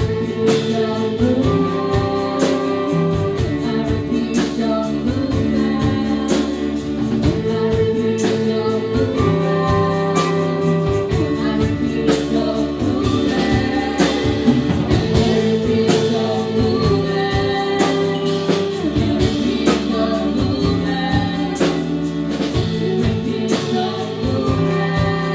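Live band playing a song: singing over held instrumental chords, with drum hits keeping a steady beat.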